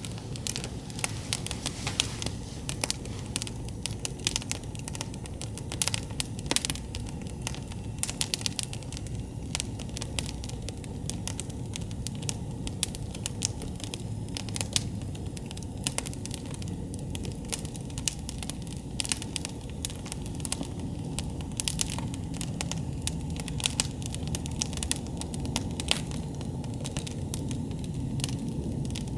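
Campfire burning, wood crackling and popping in a dense, irregular stream of sharp snaps, over a steady low rumble.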